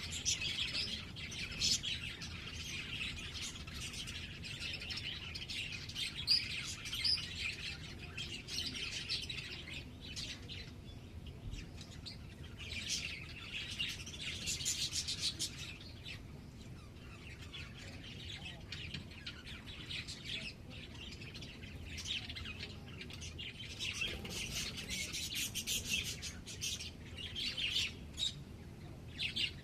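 Small birds chirping and twittering, many quick high-pitched chirps in busy flurries that thin out briefly around the middle and pick up again near the end.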